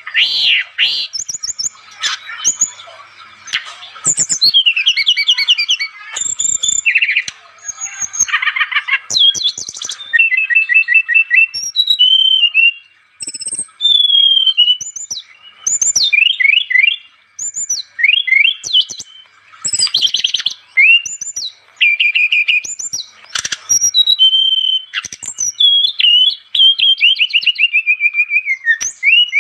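SRDC songbird singing vigorously in a long, varied stream: rapid trills, chattering runs and sliding whistles, in phrases broken by short pauses.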